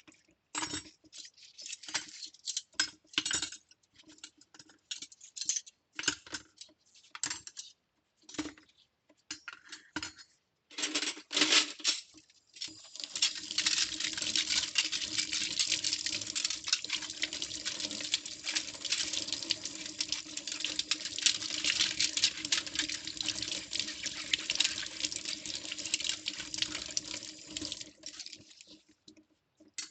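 Cutlery being hand-washed at a kitchen sink: scattered clinks, rattles and splashes of metal utensils and water for the first twelve seconds or so. Then the tap runs steadily for about fifteen seconds and shuts off near the end.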